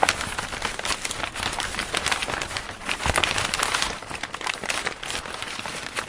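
Origami paper being handled and folded, with a steady stream of irregular crinkling and rustling.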